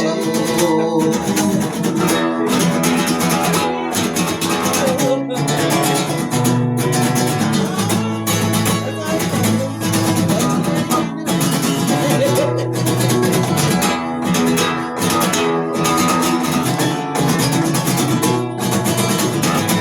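Guitar strummed in a steady rhythm, chords ringing on through an instrumental passage of a song.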